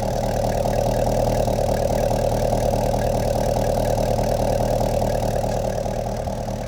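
Chevrolet Corvette ZR1's supercharged V8 idling steadily, swelling slightly after the start and easing near the end.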